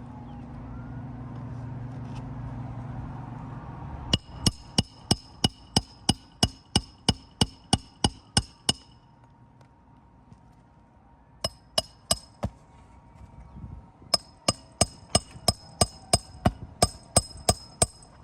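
Hammer blows on metal during a roof shingle repair, ringing at each strike, about three a second. A run of about fifteen blows starts about four seconds in, three more come a few seconds later, and another run of about a dozen falls near the end. A low rumble before the first blows stops when they begin.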